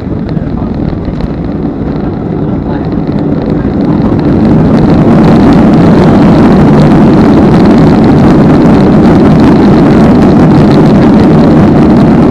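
Boeing 737-300's CFM56 engines in reverse thrust just after touchdown, heard from the cabin. A loud rushing noise builds about four seconds in and then holds steady.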